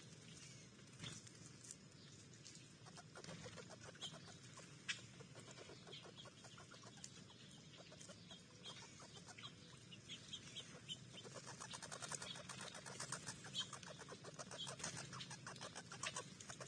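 Faint, rapid clicking and crunching of animals feeding at a backyard bird feeder, growing denser in the second half, with a few short high chirps.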